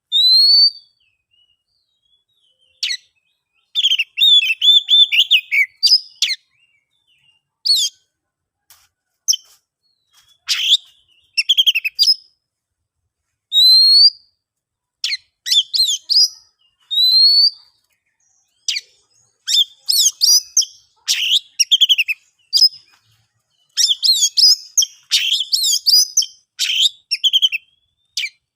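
Oriental magpie-robin (kacer) singing: clear, rising whistled notes alternating with rapid, varied chattering phrases, separated by short pauses. The phrases come thicker and faster in the second half.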